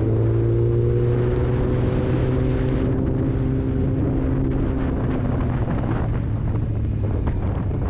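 Kawasaki Z750 inline-four motorcycle engine and exhaust running at cruising speed, its note sinking slowly as the throttle eases. In the second half the engine tone blurs under wind rushing over the camera microphone.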